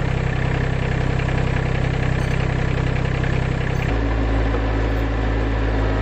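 Rural King RK25 subcompact tractor's diesel engine running steadily, its note changing abruptly about four seconds in.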